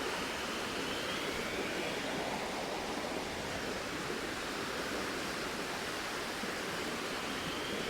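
Steady rushing of a flowing river, an even, unbroken wash of water noise.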